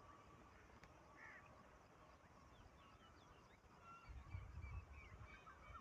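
Faint chirps and short calls of small birds. A low rumble joins from about four seconds in.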